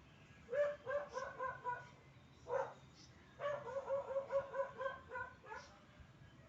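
An animal calling: two quick runs of short, repeated pitched notes, about five a second, with a single louder call between the runs.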